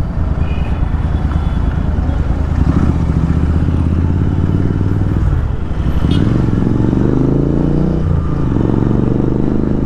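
Royal Enfield Continental GT 650's parallel-twin engine running loud through a Thrive aftermarket exhaust while riding. About five and a half seconds in the note drops, then climbs for about two seconds and drops again near eight seconds in before holding steady.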